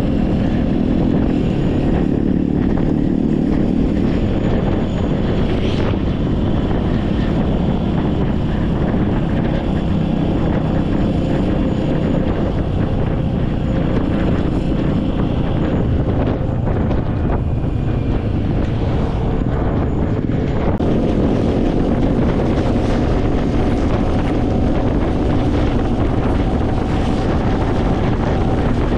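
An engine running steadily with wind buffeting the microphone, as when riding along in a motor vehicle or boat.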